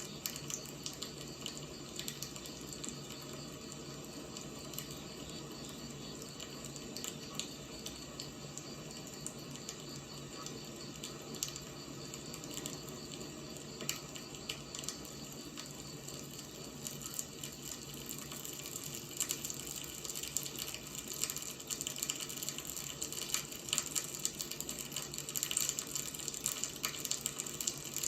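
Firewood burning: a steady hiss with frequent sharp crackles and pops, the crackling growing busier and louder in the second half.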